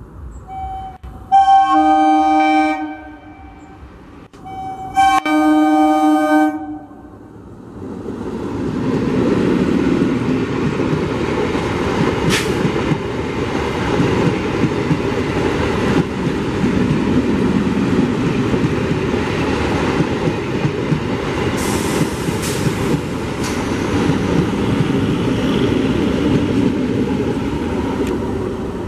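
Electric multiple unit local train sounding its horn in two blasts of about a second and a half each, then running past with a steady, loud rumble of wheels on the rails.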